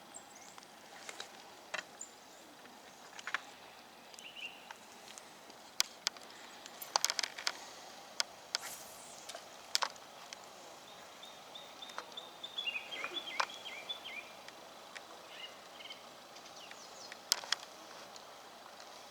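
Faint outdoor ambience with scattered sharp clicks and taps. A bird chirps a quick run of notes about two-thirds of the way through.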